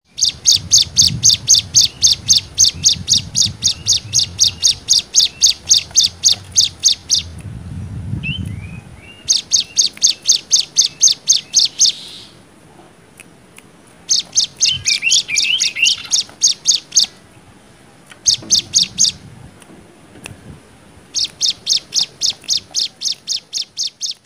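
Cigun songbird singing its rapid 'nembak' song: strings of sharp, high repeated notes at about five a second, in bouts of a few seconds broken by short pauses.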